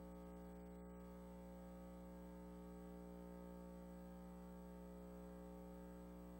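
Near silence with a steady electrical hum, a buzz of many unchanging tones.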